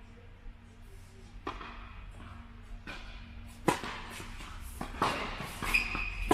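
Tennis balls being struck by rackets and bouncing during a rally: a series of sharp knocks about a second apart, the loudest about three and a half seconds in, with a short high squeak near the end.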